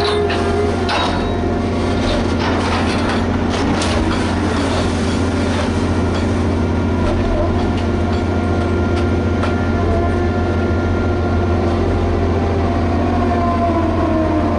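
Liebherr HS8200 dragline excavator's diesel engine running steadily under load, with several metallic clanks in the first few seconds and a whine that slowly drops in pitch near the end.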